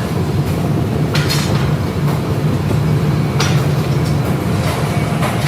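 Steady industrial machinery running in a leaf-spring factory, a loud low hum with a few sharp metal clanks.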